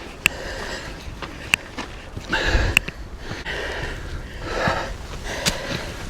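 A person breathing hard after climbing a steep path, with a few sharp clicks between the breaths.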